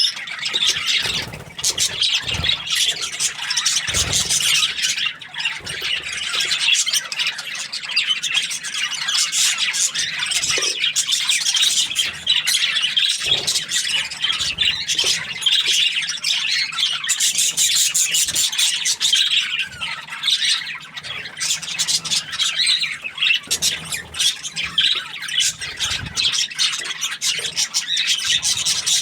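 Budgerigars chirping and chattering continuously, a dense stream of rapid warbles and squawks, with occasional soft low thumps.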